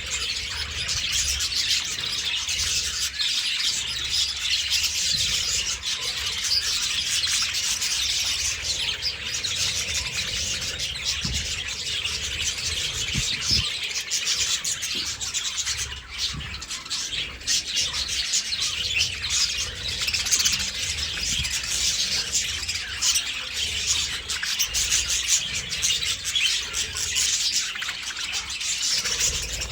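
A flock of budgerigars chattering and chirping without pause, many rapid overlapping chirps and warbles.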